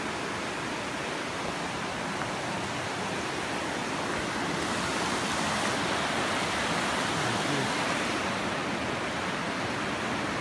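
Steady rush of fast-flowing water from a river or waterfall.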